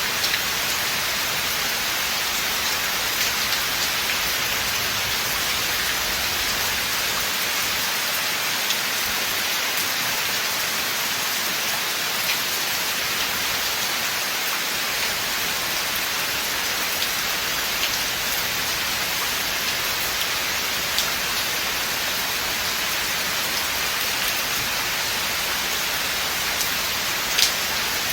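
Steady rain falling in a forest, an even hiss with scattered close drops ticking on surfaces, one louder drop near the end.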